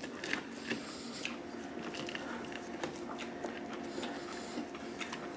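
Someone chewing a bite of crispy, breaded deep-fried fish with the mouth close to the microphone: soft, scattered crunches and smacks.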